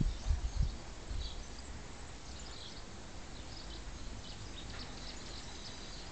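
Small birds chirping faintly and sporadically with short, high calls over a steady outdoor background. A few low thumps on the microphone come in the first second.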